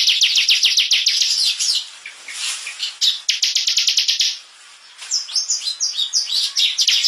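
Ciblek (bar-winged prinia) singing a rapid drilling trill of a dozen or so notes a second, the 'ngebren' song used to tutor competition birds. The trill breaks off briefly twice, then gives way to a run of varied short chirps before starting again near the end.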